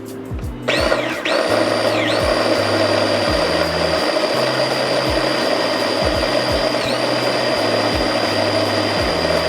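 Electric blender switching on about a second in and running steadily, blending a thick ketchup-based sauce, its high motor whine dipping briefly twice. Background music with a steady bass beat underneath.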